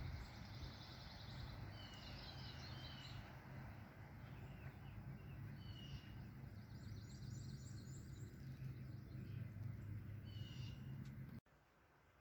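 Outdoor ambience of songbirds giving short trills and chirps every second or two over a steady low hum. The sound cuts off abruptly near the end.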